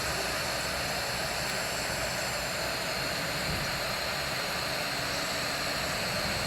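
A steady, even rushing noise that holds at one level throughout, with no distinct events.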